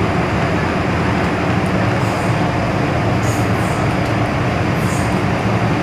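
MTR M-Train electric multiple unit running underground, heard inside the carriage: a steady rumble of wheels on rail and motor noise, with no change in speed.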